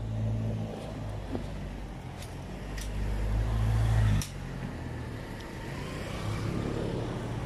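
Motor vehicle engine running close by in street traffic, a low hum that builds up and then drops away suddenly about four seconds in, leaving a quieter traffic hum.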